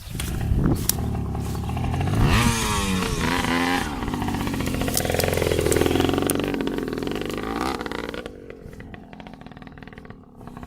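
Dirt bike engine being run to check it still goes after a crash: revved up and down several times about two seconds in, then held at a steady higher speed, dropping away sharply near the end.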